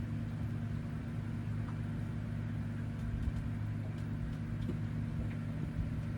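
Airboat engine and propeller droning steadily at a distance, a low even hum with a slight rumble.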